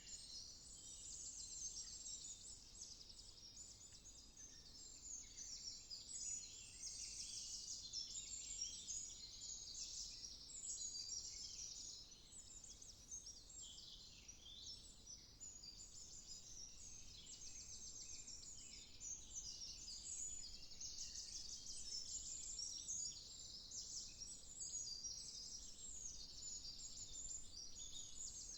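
A chorus of many songbirds in woodland, singing over each other with dense chirps and rapid trills throughout.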